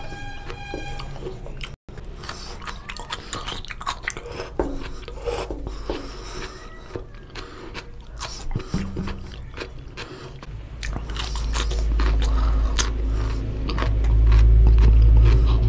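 Close-miked eating of mutton curry and rice: chewing and biting with many short, wet mouth clicks. A low rumble builds from about ten seconds in and is the loudest sound near the end.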